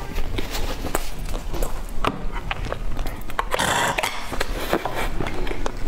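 Close-miked chewing of a soft, cheese-filled pastry, with many small wet mouth clicks and smacks. A louder burst lasting about half a second comes a little past halfway.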